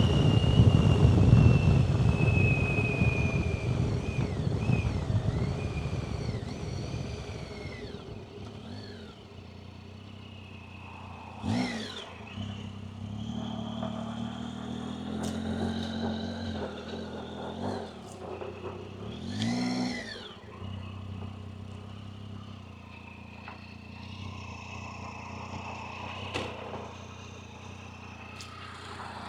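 A motorcycle engine pulling away, its rumble and a slowly falling whine fading over the first several seconds. After that, quieter traffic, with two vehicles briefly passing, about a dozen seconds in and again near twenty seconds.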